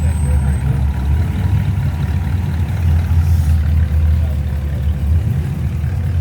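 A car engine running at a steady idle: a low, even rumble with no revving.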